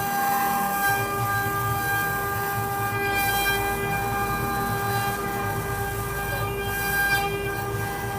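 Spindles of a four-head CNC wood carving router running, a steady high whine made of several held tones over a rough low rumble.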